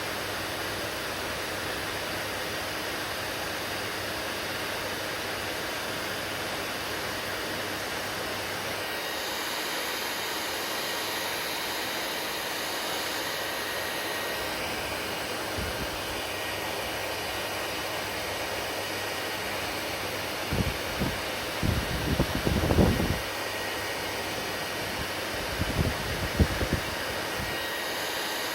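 Hair dryer running steadily, an even whooshing hiss with no change in speed. A few short low bumps break in about twenty seconds in and again near the end.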